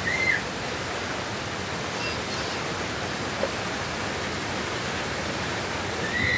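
Steady rushing noise of a strong breeze, with short high whistles just after the start and again near the end.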